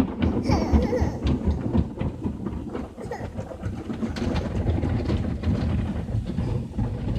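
Automatic car wash machinery working over the car, heard from inside the cabin: a steady low rumble with many rapid knocks and slaps against the body.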